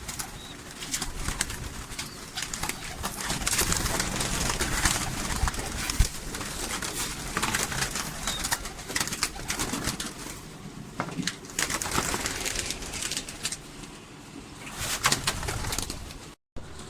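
Domestic pigeons cooing, with wings flapping and scrabbling amid a rustle of small clicks.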